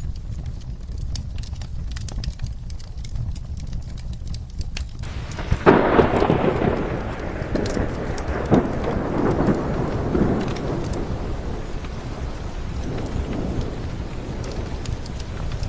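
Steady rain over a crackling fireplace fire, with a clap of thunder about five and a half seconds in that rumbles on and dies away over several seconds.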